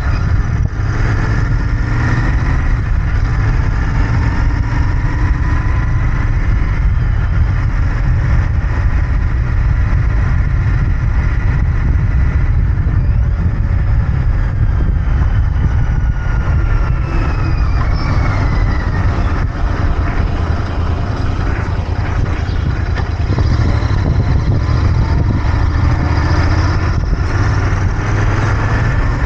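Royal Enfield Interceptor 650's parallel-twin engine and exhaust running under way on the road, steady, with slow rises and falls in pitch.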